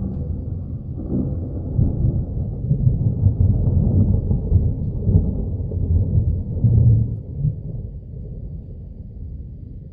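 Long rolling peal of thunder: a deep rumble that swells about a second in, stays strongest for several seconds, then fades away.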